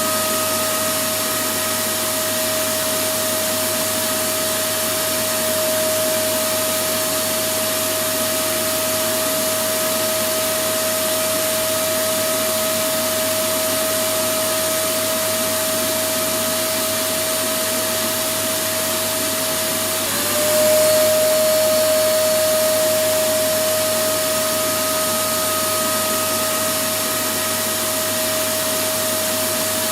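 Electric vacuum cleaner running steadily, a constant motor whine over a full rush of air. About two-thirds of the way through the whine dips briefly in pitch and the sound gets a little louder, then settles back to the same steady run.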